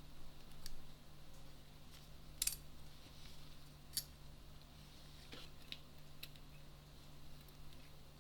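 Scattered light clicks and taps, about a dozen, the sharpest a quick double click a couple of seconds in, over a faint steady hum.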